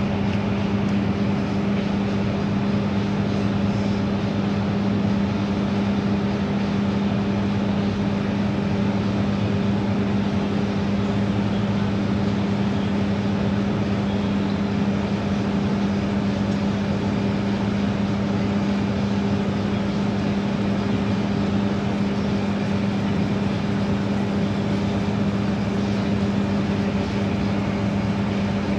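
Microwave oven running: a steady, unbroken hum with a strong low tone, as it heats sweet potato in water.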